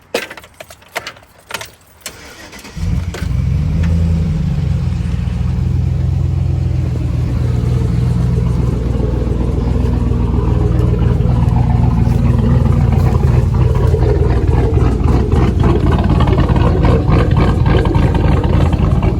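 A few sharp clicks, then the freshly rebuilt V8 of a 2008 Chevrolet Silverado with a Truck Norris cam starts about three seconds in, flares up briefly and settles into a steady idle. The engine is brand new and still being broken in.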